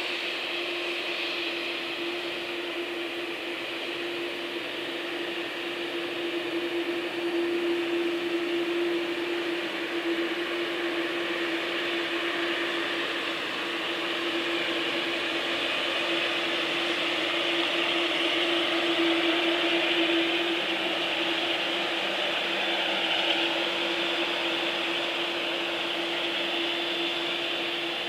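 Jet airliner engines running, a steady rushing whine with a constant hum underneath, swelling a little and easing off twice.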